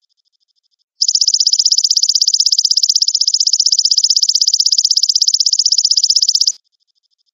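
A high-pitched insect trill: a rapid, perfectly even pulsing that comes in loud about a second in and stops abruptly near the end, over a fainter steady pulsing call.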